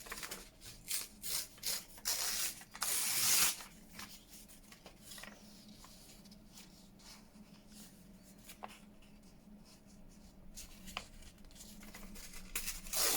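Paper being handled and rubbed on a craft desk: a run of short rustling, rubbing strokes for the first few seconds, then quieter handling with a few light taps, and more strokes near the end.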